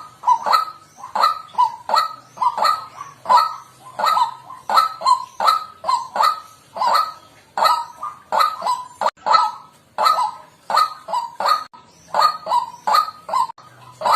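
White-breasted waterhen calling, a short 'kwak' note repeated about twice a second in an unbroken run.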